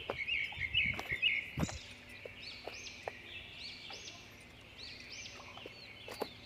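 Birds chirping, a string of short high calls repeating throughout, with footsteps knocking and crunching on loose stones now and then.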